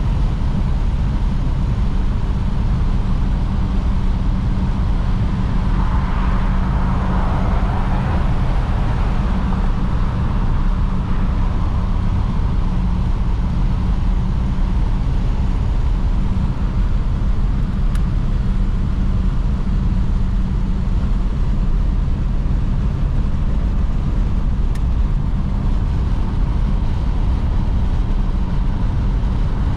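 1953 Oldsmobile Super 88 on the road: its Rocket V8 runs at a steady low rumble under continuous road and wind noise, with a brief swell of louder noise about six seconds in.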